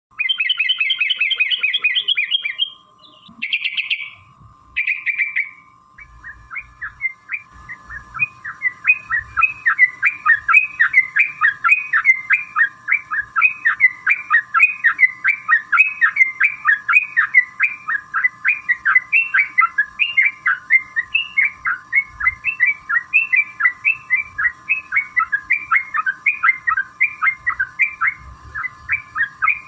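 Yellow-vented bulbul (trucukan) singing: a few loud, bubbling phrases at first, then a long, fast run of repeated chattering notes at about three a second, the 'ropel panjang' song used to goad other trucuk into answering. A steady tone and a faint high whine run beneath it.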